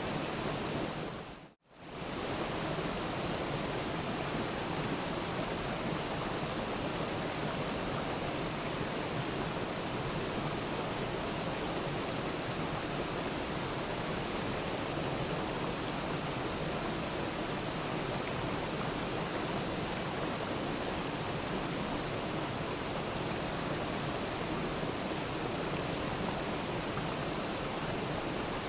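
Waterfall's steady rush of falling water. About a second and a half in, the sound fades away to silence for a moment and swells back.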